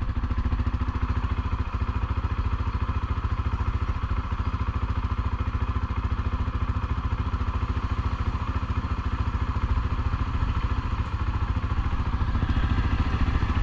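ATV engine running steadily at low, even speed on a trail ride, a fast, regular throbbing exhaust note.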